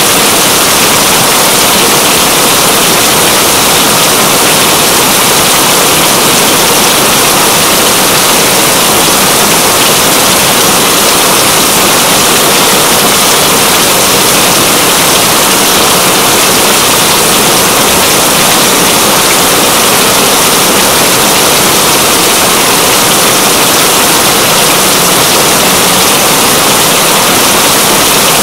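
Steady heavy rain, a dense even hiss with no let-up.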